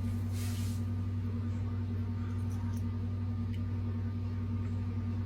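Steady low electrical hum. A brief soft rustle comes about half a second in.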